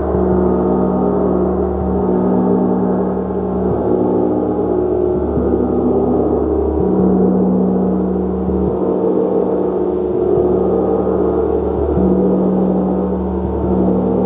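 Gong played continuously with soft repeated strokes, its many overlapping tones held in a dense, sustained wash. The lowest tones swell and fade every one to three seconds as new strokes come in.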